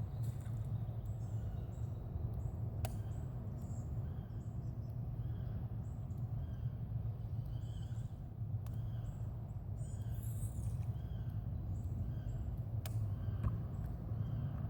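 Outdoor birds calling repeatedly in short high notes over a steady low rumble, with a few sharp ticks.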